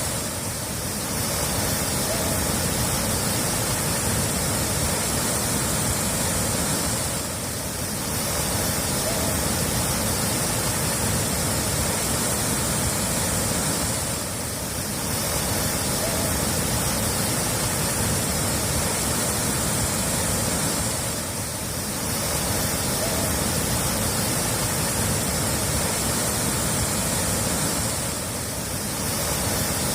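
Steady rush of running water, dipping briefly about every seven seconds.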